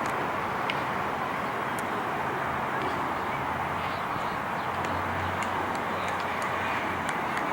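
Steady outdoor background noise with indistinct distant voices, a few faint ticks and a faint low hum about five seconds in.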